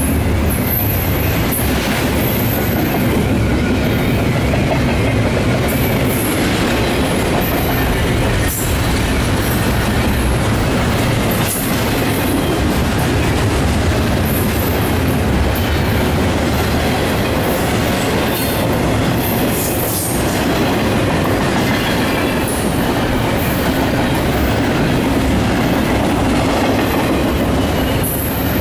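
Double-stack intermodal freight train's well cars rolling past close by: a steady, loud rumble of steel wheels on rail, with scattered clicks as the wheels cross the rail joints.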